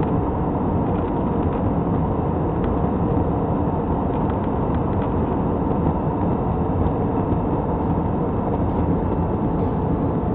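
Steady cabin noise of an airliner in flight: an even rush of engine and airflow noise, heaviest in the low range, with no change in pitch or level.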